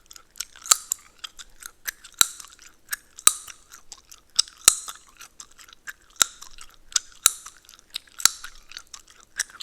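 Close-miked gum chewing: wet, sticky mouth smacks with sharp gum cracks and snaps, a loud crack about once a second amid quieter clicking.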